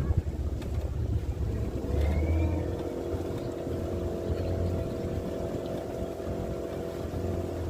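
Boat engine running with a steady hum that comes in about two and a half seconds in, over gusty wind buffeting the microphone.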